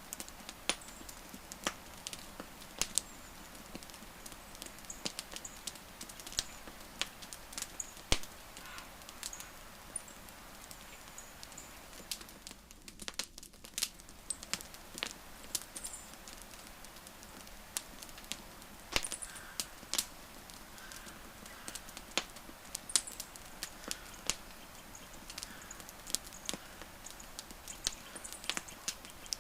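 Wood fire crackling: irregular sharp pops and snaps, a few much louder than the rest, over a soft steady hiss.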